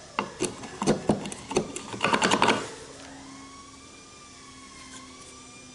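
Wooden knocks and clicks of a hand-cut tenon being pushed and worked into its mortise, ending in a quick flurry about two and a half seconds in. Only a faint steady hum follows.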